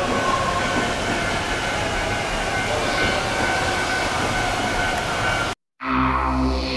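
Shinano Railway 115-series electric train moving slowly through the station yard: steady running and rail noise with a faint high steady tone in it. Near the end it cuts off abruptly, and background music begins.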